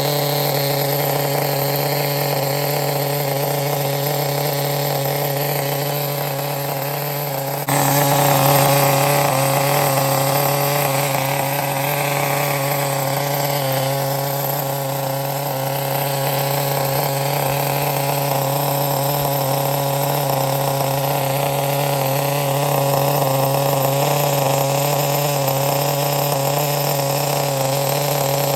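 Brand-new RC nitro engine running steadily on the bench during break-in, a constant buzzing drone. About eight seconds in the sound steps up suddenly and slightly louder, then holds steady again.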